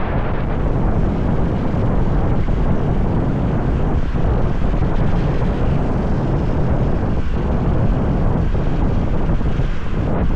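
Steady wind rush on the microphone of a moving motorbike, with engine and road noise beneath it.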